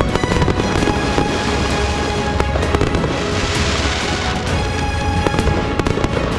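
Aerial fireworks going off in a rapid run of sharp bangs, with a dense crackling hiss from about three seconds in for a second and a half, heard over music.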